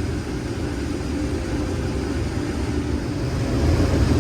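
Heavy diesel engine of farm machinery running steadily, a low drone that grows a little louder near the end.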